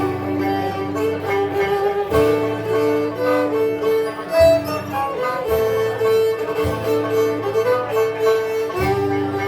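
Instrumental Scottish folk tune played live: strummed 12-string guitar and banjo under a melody in long held notes over a steady low note.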